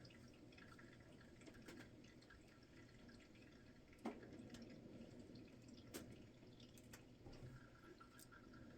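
Near silence with a few faint, sharp clicks, the clearest about four and six seconds in.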